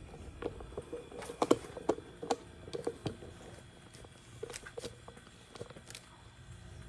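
A run of irregular light clicks and knocks, the loudest about a second and a half in, over a faint steady hum.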